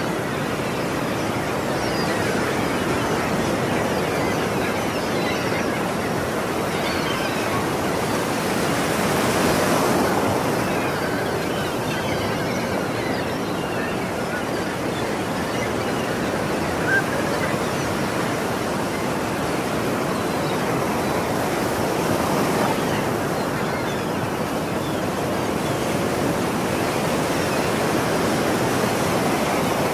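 Ocean surf washing steadily onto the shore, a continuous rushing noise that swells slightly about a third of the way in and again later.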